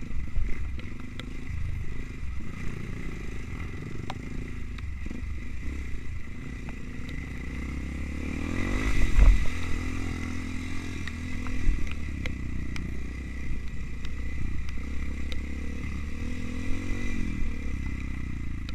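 Trail motorcycle engine running while riding over rough ground, revving up and back down twice, once around the middle and once near the end, with scattered knocks and clatter from the bike.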